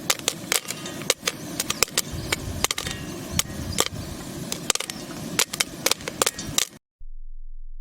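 Popcorn kernels popping: many sharp, irregular pops, several a second, over a steady hiss. The sound cuts off suddenly near the end.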